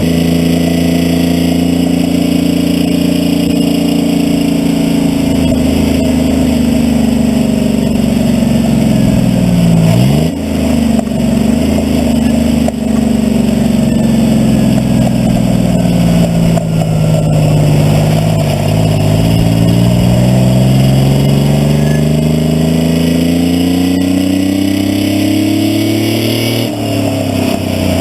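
Detroit 6V71 two-stroke V6 diesel in a cab-over Kenworth truck working under load while pulling a semi trailer. The engine speed sags, briefly drops and picks up again about ten seconds in, falls further, then climbs steadily before a sudden drop near the end, the pattern of gear changes.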